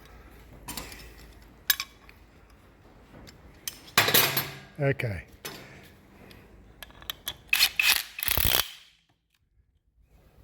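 Scattered sharp metallic clicks and clinks of hand tools against motorcycle parts, as pliers are worked on a bent part. The sound drops away almost to nothing near the end.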